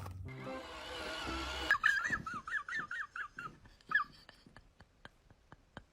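An animal giving a quick run of high-pitched squeaky yelps, about ten in two seconds, with one more a moment later; faint, regular light ticking follows.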